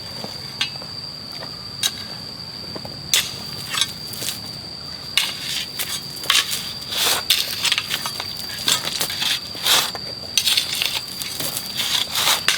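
A shovel scraping into loose soil and stones and tossing it, in irregular crunching strokes that come more often in the second half.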